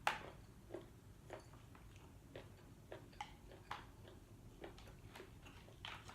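Close-miked chewing and mouth sounds of someone eating shellfish: short, irregular wet clicks and smacks, the sharpest one right at the start.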